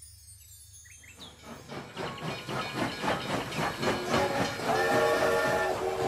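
Train sound effect: a train clattering along, growing louder, then a chord-like train whistle blowing from about three-quarters of the way through, with a short break. The last shimmer of bar chimes fades out in the first second.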